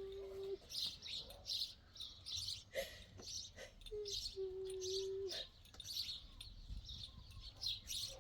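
Small birds chirping over and over in short high notes, with a steady low hum-like tone held for about half a second, twice.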